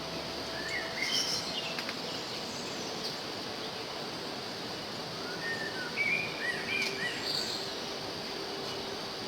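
Small birds chirping in two short bursts of quick, rising and falling notes, about a second in and again around six to seven seconds in, over a steady background hiss.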